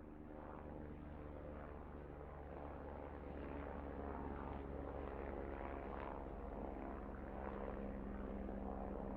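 Steady drone of an aircraft engine and propeller, growing slightly louder.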